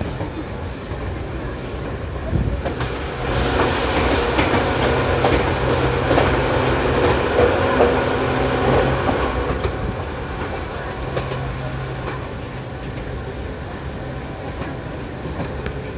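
Seibu 4000 series electric train running at speed, heard from inside the carriage: a steady rumble of wheels on rail with a low hum and occasional clicks over rail joints. It grows louder from about three to ten seconds in, while the train runs close alongside a concrete wall.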